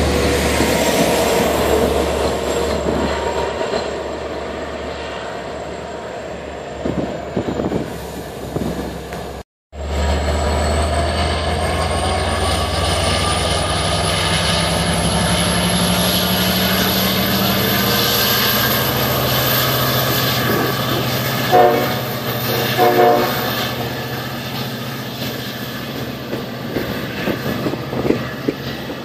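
Long Island Rail Road diesel passenger train running by, with a steady low engine drone and rail noise. There are two short horn blasts about two-thirds of the way through, and the sound drops out for a moment about a third of the way in.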